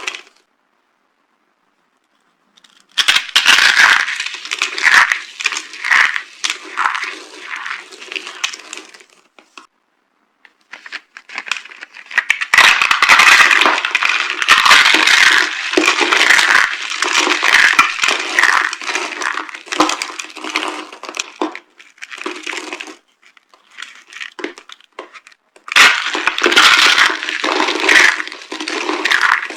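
Dry soap being crushed, crackling and crunching in long stretches. The first seconds are silent, and there are short pauses before the crushing starts again at about 10 s and about 26 s.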